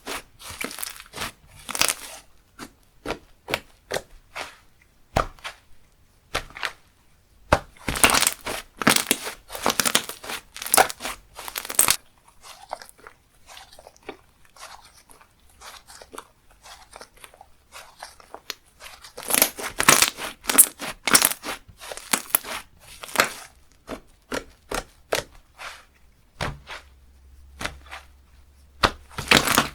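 Chewy, creamy slime being pressed, stretched and pulled by hand: sticky crackling and tearing sounds in bursts of a few seconds, with quieter pauses between.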